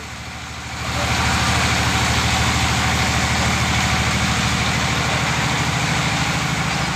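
Engine idling steadily, rising in level about a second in.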